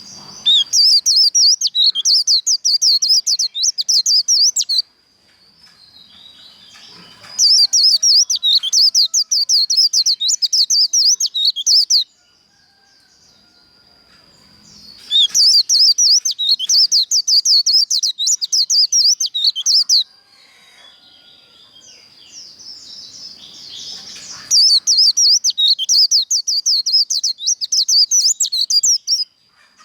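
A white-eye (vành khuyên) singing its rapid twittering 'líu' song in four long bursts of fast chirps, each lasting about four to five seconds with short pauses between. A faint, steady, high-pitched tone runs underneath.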